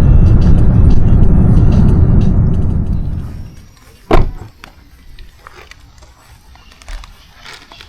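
Low, steady rumble of a vehicle on the move that fades away after about three seconds, then one sharp thump, the loudest sound, followed by faint scattered clicks.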